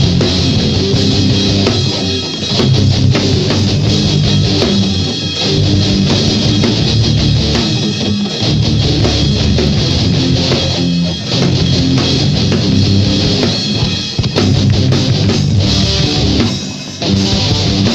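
Live rock band playing an instrumental passage: distorted electric guitars, bass and drum kit.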